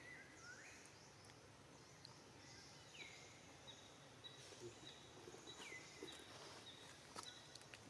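Faint outdoor ambience with distant bird calls: short falling chirps repeating every two to three seconds over a quiet background, and a few faint clicks near the end.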